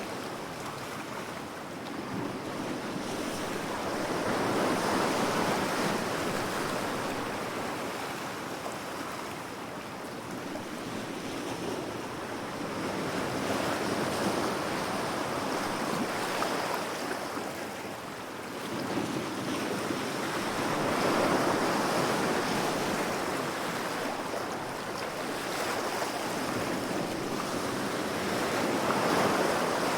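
Ocean waves breaking and washing ashore, the surf swelling and ebbing about every five to eight seconds.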